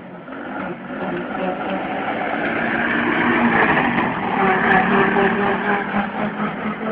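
Small Viglain petrol engine of a motorised bumper car running, getting louder over the first few seconds, then easing off a little near the end.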